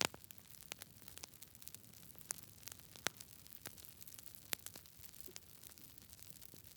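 Wood fire burning in a fireplace: a low steady hiss with frequent irregular sharp crackles and pops, a few of them much louder than the rest.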